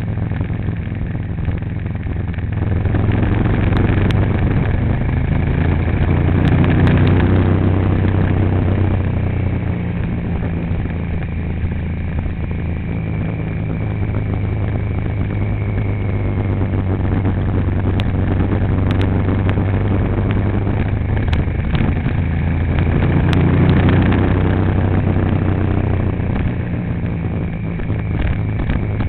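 Vehicle engine running while driving, with road noise; it swells and climbs in pitch a few seconds in and again near the end as the vehicle accelerates.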